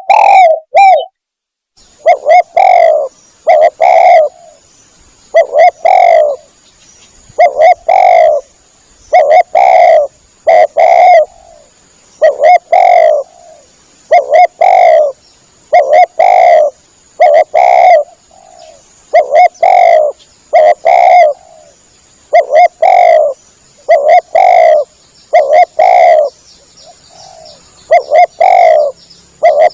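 Spotted dove (tekukur) cooing over and over, its low coos coming in short runs of two or three notes about every two seconds. The calling cuts out briefly about a second in.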